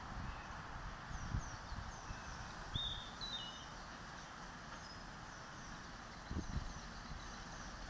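Small birds singing, short falling chirps repeated in quick runs, over a steady outdoor hiss, with a few brief low thumps about a second and a half, three and six and a half seconds in.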